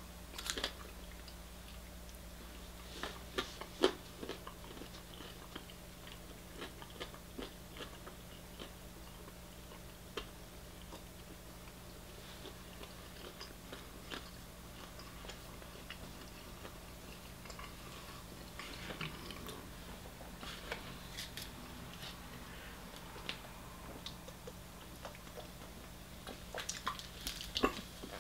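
Faint chewing and biting of KFC fried chicken, with occasional crunches and small clicks. Near the end there is a quick run of clicks as a plastic cola bottle is handled by its cap.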